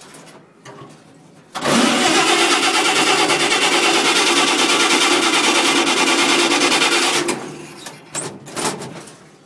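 Old cab-over truck's cold engine being started with the choke pulled out: it turns over loudly and evenly for about five and a half seconds, starting about a second and a half in, then winds down.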